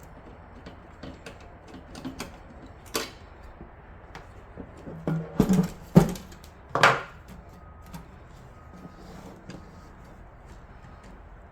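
Clicks and knocks of computer parts being handled and fitted into a PC case, scattered at first, with a run of louder knocks about five to seven seconds in.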